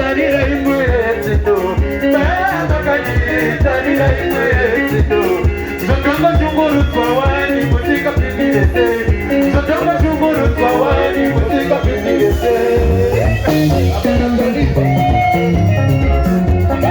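Sungura band music: electric guitar lines weaving over bass and drums that keep a steady beat.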